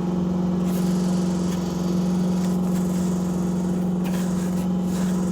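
A motor or engine running steadily at an even, unchanging pitch, a constant hum.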